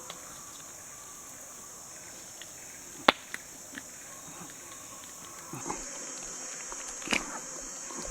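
Steady high-pitched drone of rainforest insects, with a few sharp clicks and knocks over it, the loudest about three seconds in.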